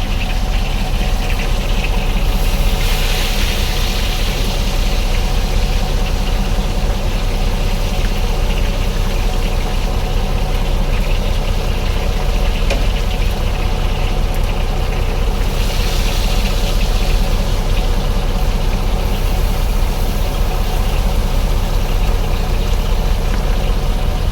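Boat engine idling steadily with a low, even drone. A hiss swells twice over it, about two seconds in and again around fifteen seconds.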